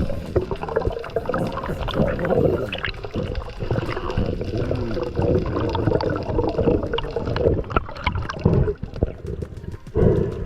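Underwater gurgling and bubbling of water around the microphone, with warbling, wavering tones.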